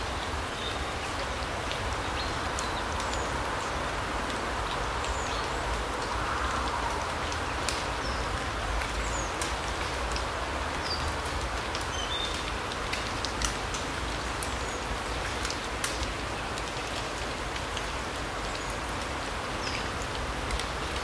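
Larch-forest ambience: a steady rushing hiss, with small birds giving short high chirps now and then and scattered light ticks.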